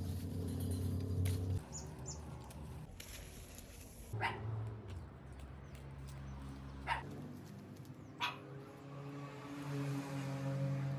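Domestic animal sounds, with three short sharp calls about four, seven and eight seconds in, over low steady tones.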